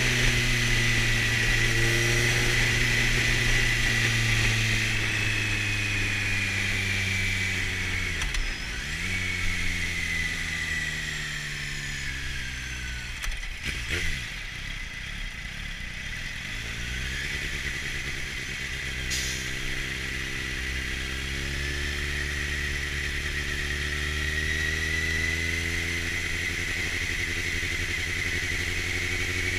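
2004 Kawasaki Z750's four-cylinder engine running under way through an aftermarket LeoVince exhaust, heard from the rider's knee. Its revs dip sharply and climb again about eight seconds in and again about fourteen seconds in, then hold fairly steady.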